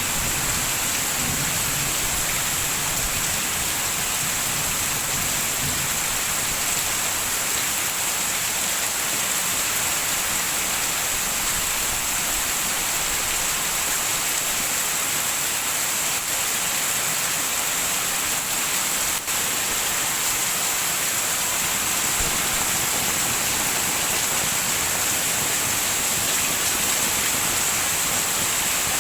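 Heavy rain falling steadily as an even hiss, with a low rumble of thunder dying away over the first few seconds.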